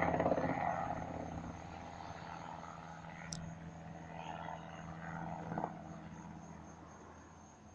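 Helicopter flying overhead, its steady drone gradually fading as it moves away.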